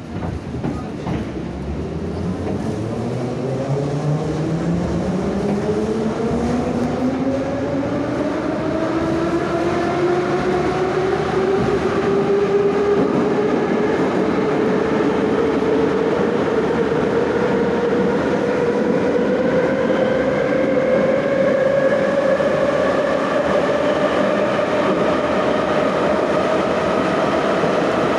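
81-717/714 'Nomernoy' metro train accelerating away from a station. Its traction motors' whine climbs steadily in pitch over wheel rumble and rail clatter, getting louder over the first few seconds and then holding.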